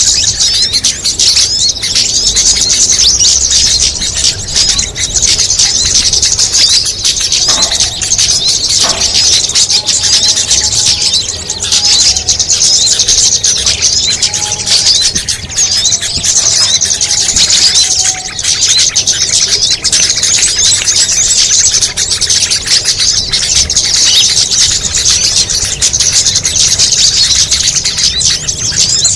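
Bird-lure recording of many small songbirds calling at once: a loud, dense, unbroken mass of high chirps and twitters, with a few lower whistled notes in the middle.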